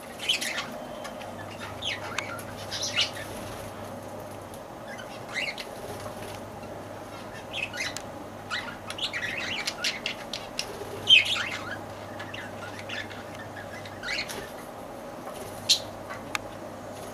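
Lovebirds chirping and squawking in short, sharp calls scattered throughout, with one louder call about eleven seconds in. A steady hum runs underneath.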